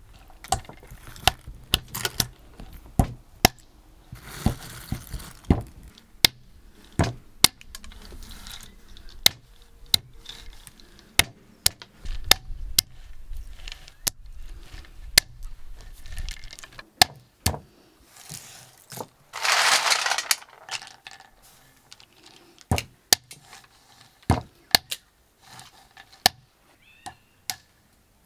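Irregular sharp knocks and clicks of hands-on food preparation, dozens of them spread unevenly, with a short rushing noise about twenty seconds in.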